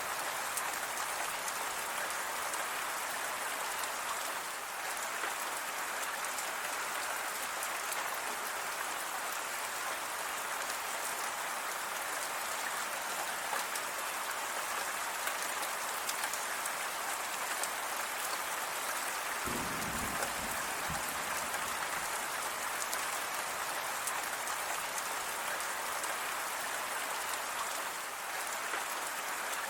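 Steady rain falling, an even hiss with fine ticks of individual drops. A brief low rumble comes in about twenty seconds in and lasts a second or so.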